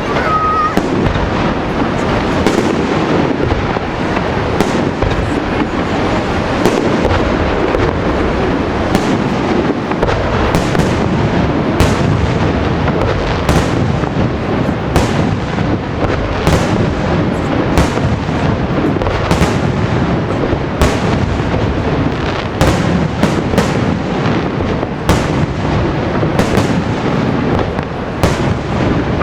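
Fireworks display with shells bursting in close succession: a dense, continuous rumble and crackle punctuated by many sharp bangs throughout.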